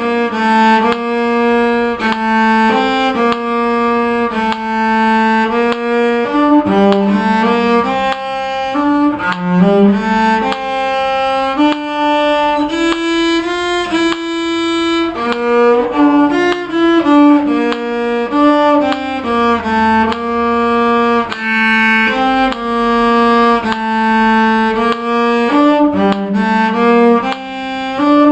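Bowed string instrument playing a simple melody in steady notes, with more than one line sounding at once.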